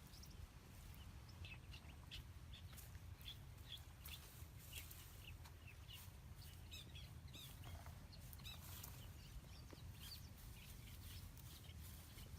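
Faint short, high chirps from birds, scattered through, with a few light ticks over a low steady hum.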